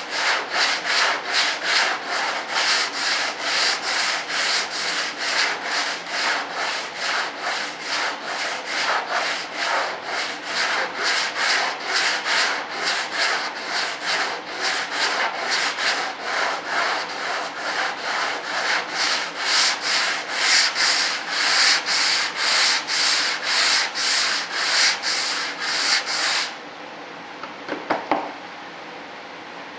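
Long sanding block with sandpaper rubbed back and forth by hand, a steady rhythm of about two rasping strokes a second that stops shortly before the end. The strokes are flattening a surface that had waves running every which way.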